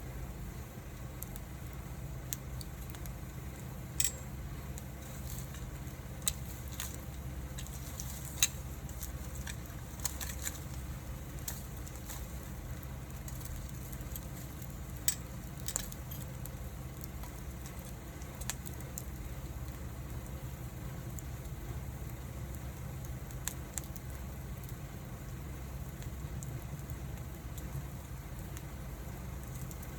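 Wood fire burning, with scattered sharp crackles and pops, most of them in the first half, over a steady low rumble.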